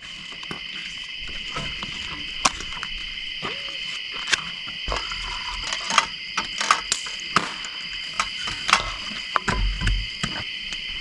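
Steady, high-pitched chorus of crickets, with scattered sharp clicks and snaps over it and a couple of low thumps near the middle and the end.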